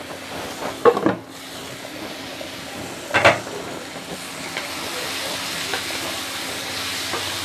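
Halved tomatoes and sliced onions sizzling in oil in a nonstick kadai and being stirred with a wooden spatula. The sizzle grows steadily stronger from about four seconds in, and there are two short knocks about one and three seconds in.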